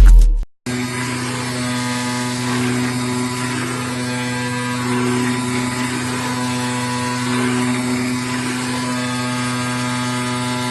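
A brief loud burst of music is cut off about half a second in. Then an AOKE DCZ76 flatbed digital cutting machine runs with a steady low hum, and faint whirs rise and fall over it.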